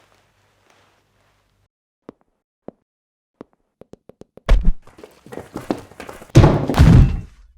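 Separate taps that come faster and faster, then a loud thud followed by clattering, and a run of heavy thuds near the end, the loudest part.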